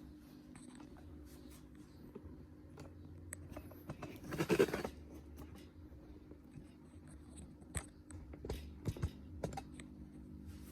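Plastic clicks, scrapes and knocks as an exhaust hose is fitted onto the back of a portable air conditioner, with a louder scrape about four and a half seconds in and a run of sharper clicks near the end.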